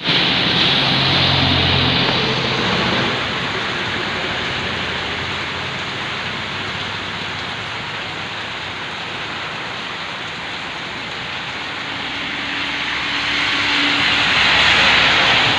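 Heavy rain falling in a steady hiss, swelling louder in the first few seconds and again near the end. A faint low hum sits under it early on.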